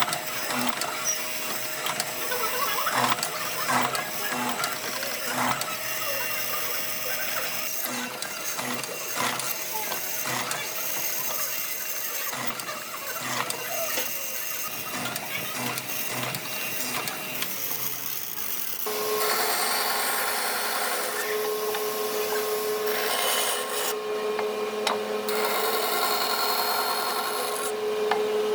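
Repeated scraping strokes of a hand tool working wood. About two-thirds of the way in they give way to a steady, even-pitched machine hum.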